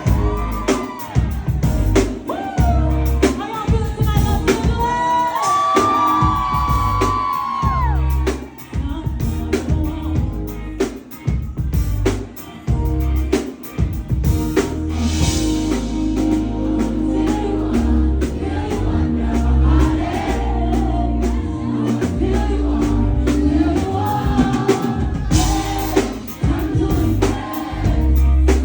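Live pop music: a woman singing over a loud backing track with a heavy, pulsing bass beat. The sung melody is clearest in the first eight seconds or so.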